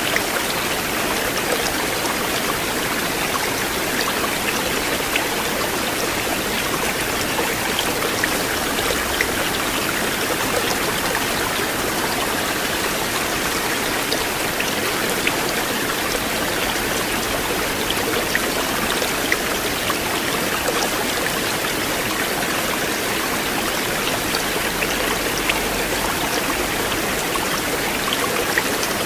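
River water flowing steadily, an even rushing and babbling with small splashes scattered through it.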